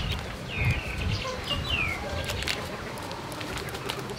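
Birds calling: about three short chirps that slide down in pitch, over a low background rumble.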